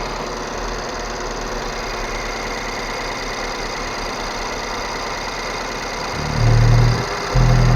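BMW 1 Series petrol engine idling steadily. Near the end come two loud, low, short booms, each under a second.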